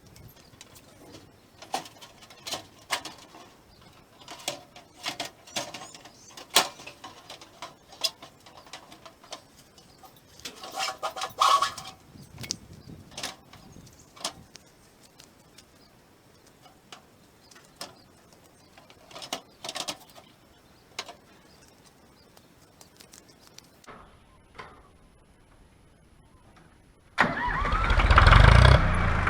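Scattered clicks and knocks of something being handled, then near the end a tractor engine starts up suddenly and runs loudly and steadily.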